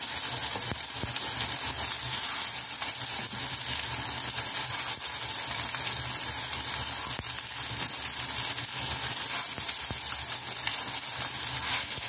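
Minced-fish-and-tofu balls frying in shallow oil in a nonstick wok, a steady sizzle as more balls are set into the oil one by one.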